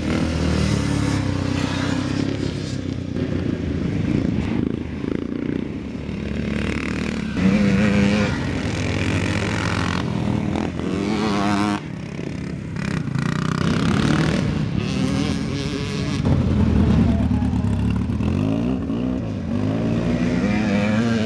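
Vintage scrambler motorcycle engines running hard off-road, revving up and dropping back again and again as the bikes accelerate and shut off.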